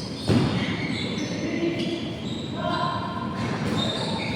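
Basketball game sounds in an echoing gym: a ball bouncing, with one loud thump about a third of a second in, over the background noise of players and voices.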